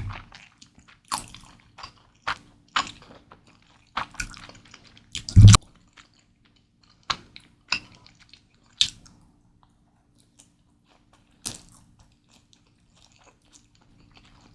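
Close-miked eating sounds of Mi Goreng instant fried noodles: irregular wet chewing and bites, with one louder bite or knock carrying a low thud a little over a third of the way in. The sounds thin out in the second half, with long quiet gaps between a few single bites.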